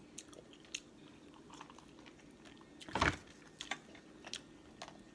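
Close-up eating sounds of a seafood mukbang: chewing with scattered small clicks and smacks, and one louder crack about three seconds in.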